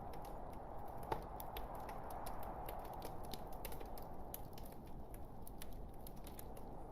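Wood fire crackling: irregular small snaps and pops over a steady low hiss, with one louder pop about a second in.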